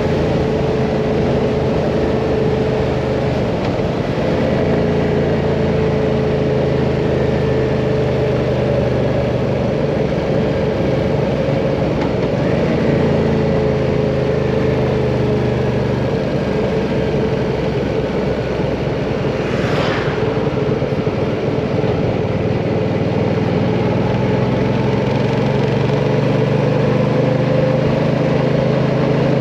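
Hyosung Mirage 650 V-twin motorcycle engine running at a steady cruise on the open road, its pitch drifting gently up and down with the throttle. A brief sharp rush of noise about two-thirds of the way through.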